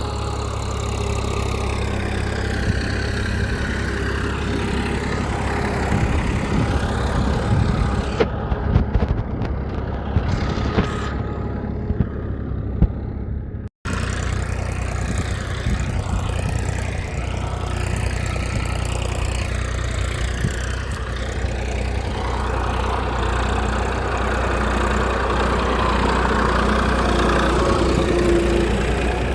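A small engine running steadily at idle, with a brief break in the sound about 14 seconds in.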